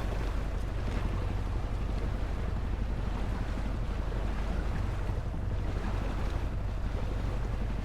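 Steady low rumble of wind on the microphone over the rush of water around a moving sailboat.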